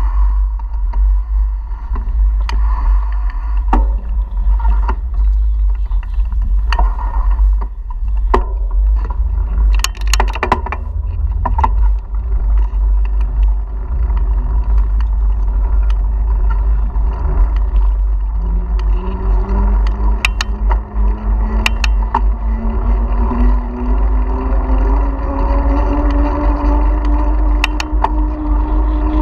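Wind buffeting a bike-mounted action camera's microphone, with scattered clicks and rattles. From about two-thirds of the way in, an engine hum rises slowly and steadily in pitch and grows louder.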